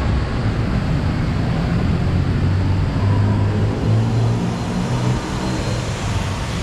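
City road traffic: a steady rush of engines and tyres, with a low engine hum that shifts in pitch as vehicles move.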